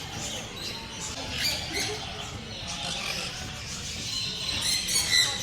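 Aviary of small parrots, lovebirds and cockatiels, chattering with many overlapping squeaky chirps, with louder squawks near the end.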